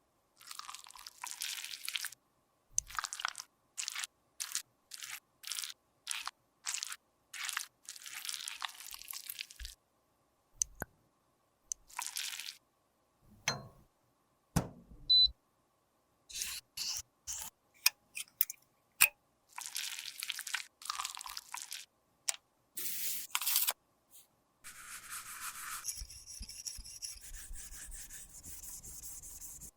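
Cosmetic products being scraped, rubbed and crushed: short bursts of scraping separated by brief silences, with a few sharp clicks midway and a steady hiss near the end.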